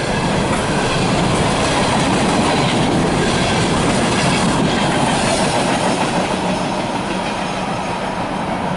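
Empty CSX coal hopper cars rolling past, their steel wheels clattering over the rails in a steady loud rush that eases slightly near the end.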